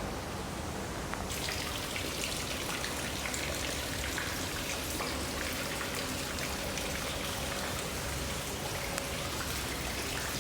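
Water falling and splashing steadily, with many small drips pattering, growing brighter and closer about a second in.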